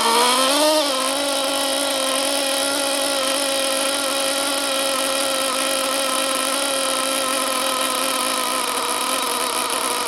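Picco P3TT .21 nitro engine running steadily at high revs, a high buzzing whine with a brief wobble in pitch in the first second. This is a static break-in run of one tank.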